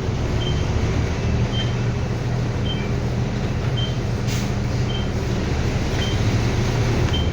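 City bus running, heard inside the cabin as a steady low engine drone, with a short high electronic beep repeating about once a second.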